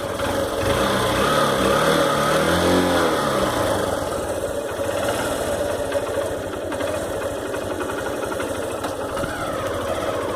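Motorcycle engine running, with the revs rising and falling about one to three seconds in, then holding steadier.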